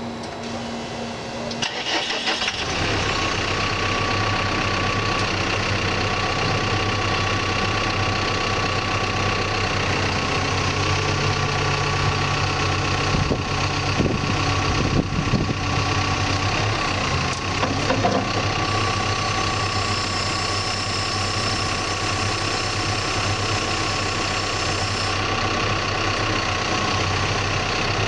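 Backhoe's diesel engine starting: a pulsing beep, then the starter cranks and the engine catches about two seconds in and settles into a steady idle. A few knocks come in the middle.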